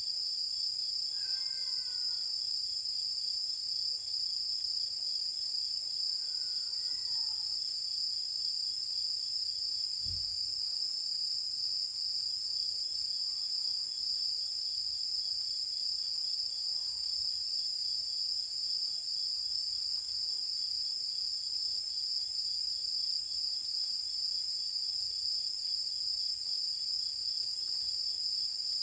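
Night chorus of countryside insects: a steady, shrill, continuous trilling with a faint pulsing buzz beneath it. Two faint short calls are heard near the start, and a soft low thump about ten seconds in.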